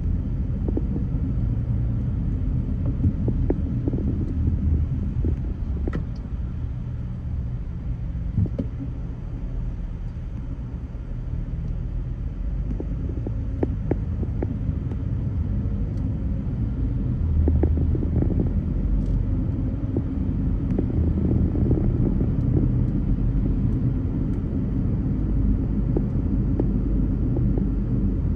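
A car driving, with a steady low road rumble that swells a little past the middle, and a few faint ticks.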